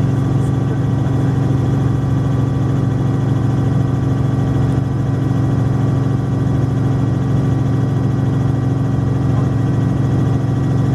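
Helicopter engine and rotor running steadily, heard from inside the cabin: a loud, even drone with a strong low hum that does not change.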